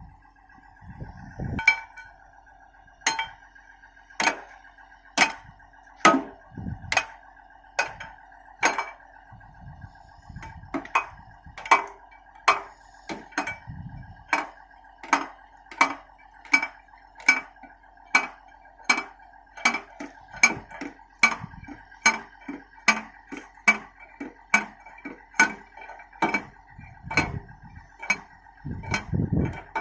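Hydraulic rock breaker on a Liugong 921DI excavator striking rock in the well, a long run of sharp, ringing metallic blows over a steady hum. The blows come about once a second at first, then quicken to nearly two a second from about ten seconds in.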